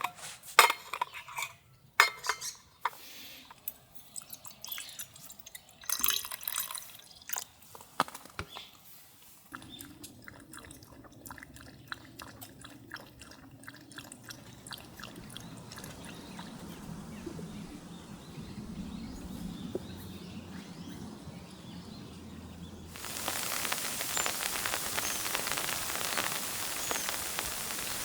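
Camp-kitchen handling sounds: scattered clicks and clinks, then a steady stretch that fits liquid being poured. A louder, even hiss cuts in suddenly near the end.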